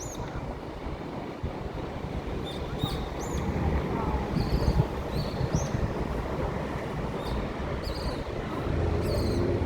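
Small birds calling, short high chirps and sweeping notes repeated every second or so, over a steady low rumble like wind on the microphone.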